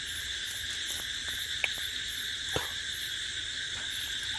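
Insect chorus, mainly crickets, chirring steadily with a higher call pulsing about two to three times a second over it. Two faint clicks come through in the middle.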